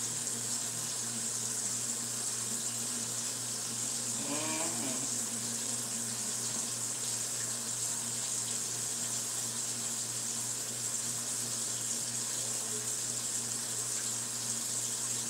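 Pork chops frying in a pan on the stove, a steady sizzle.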